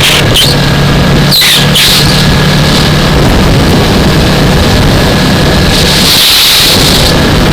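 Yamaha R3 parallel-twin engine running at a steady pitch while riding, heard through a helmet-mounted microphone with wind rushing over it in gusts, strongest about a second and a half in and again near the end.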